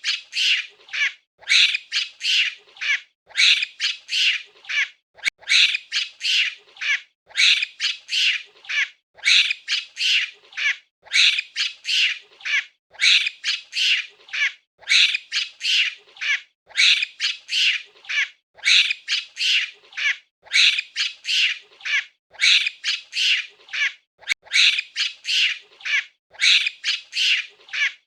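A monkey giving rapid, repeated shrill calls, several a second, on and on without a break.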